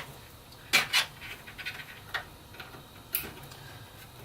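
Clicks and taps of SATA cables and their plastic connectors being handled and fed through a PC case. There are two sharp clicks close together about a second in, then lighter taps.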